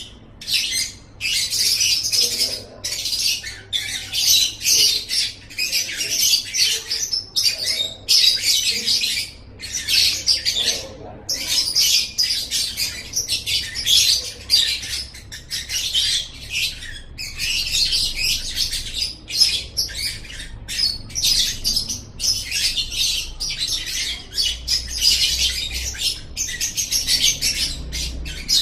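Lovebird singing: long runs of rapid, high-pitched chattering, broken by short pauses.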